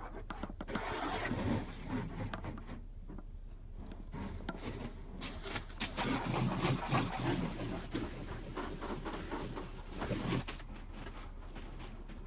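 Hose water spattering and drumming irregularly on a car windshield, heard from inside the car, with louder surges about a second in, around six to seven seconds in, and just after ten seconds.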